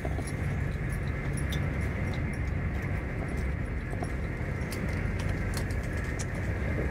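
Running noise of an SJ X40 double-deck electric train heard inside the carriage: a steady low rumble with scattered light clicks and ticks as it rolls along a station platform.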